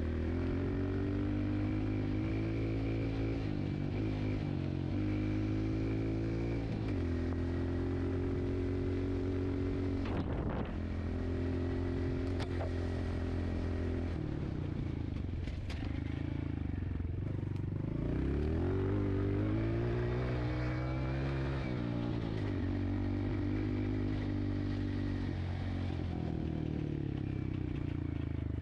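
Dirt bike engine running while being ridden, its note rising and falling again and again as the throttle opens and closes. A few sharp knocks come near the middle.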